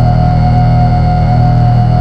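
Electronic drone from analog synthesizers: a loud, steady, buzzing low hum with a high tone held over it, unchanging throughout.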